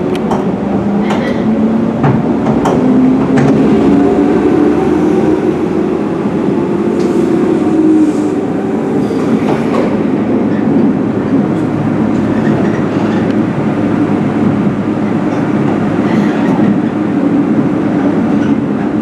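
JR West 103 series electric train running, heard from on board: a steady rumble under a motor whine that glides slowly in pitch, with occasional sharp clicks from the rails.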